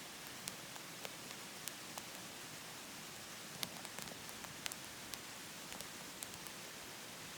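Firewood burning in a wood stove, crackling with sharp, irregular pops over a steady hiss, the pops a little thicker in the middle.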